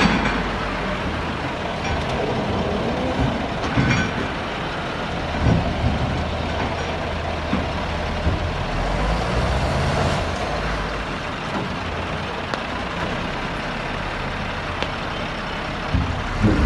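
Heavy diesel machinery running with a steady engine drone, broken by a few brief louder knocks.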